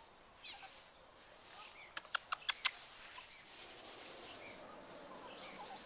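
Birds chirping faintly over quiet outdoor background noise, with a quick run of five or six sharp clicks about two seconds in.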